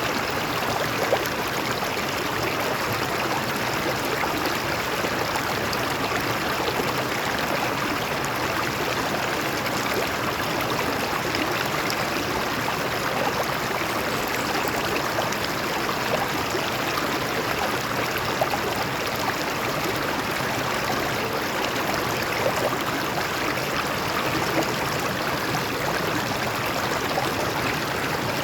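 Stream water flowing and splashing over rocks, a steady rushing and gurgling without let-up.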